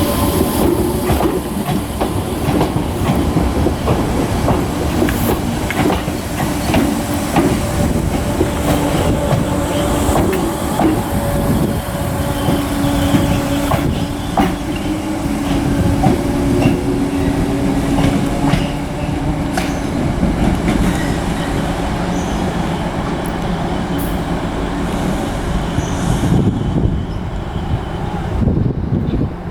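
Electric multiple unit train moving through the station, its wheels clicking over rail joints and points under a steady rumble with a held motor-like hum. The sound eases off near the end.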